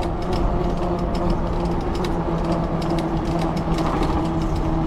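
Fat-tire e-bike in motion: a steady droning hum under a rushing noise, with light irregular clicking.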